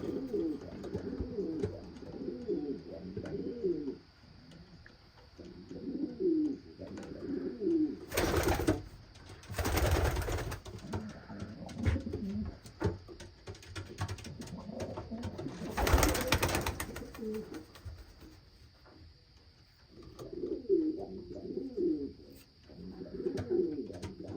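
Racing pigeons cooing in repeated low, warbling bouts. Three brief rushing noises break in during the middle stretch, the loudest about two-thirds through.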